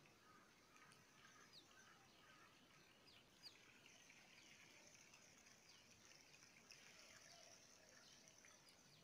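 Near silence, with a few faint, short, high bird chirps scattered through it.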